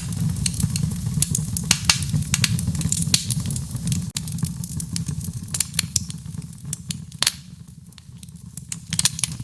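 Wood fire in a fireplace crackling and popping, with irregular sharp snaps over a steady low rumble of the flames. About two-thirds of the way through, the rumble and crackling drop off for a second or so, then pick up again.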